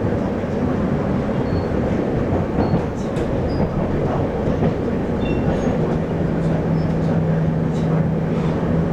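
Taiwan Railway local express electric train running along the line, heard from inside the carriage: a steady rumble of wheels on track. A steady low hum joins about six seconds in.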